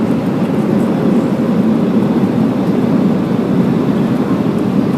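Steady cabin noise of an Airbus A319 airliner in flight: an even rumble of engine and airflow heard from inside the passenger cabin.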